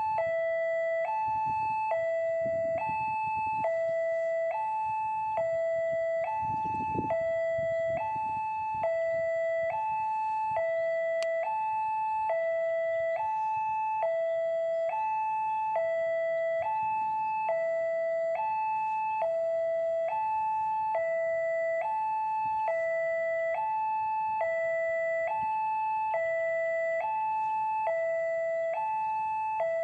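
Railway level-crossing warning alarm sounding: an electronic two-tone signal alternating steadily between a lower and a higher tone, about one full cycle every 1.3 seconds, warning that a train is approaching. A faint low rumble sits underneath in the first few seconds.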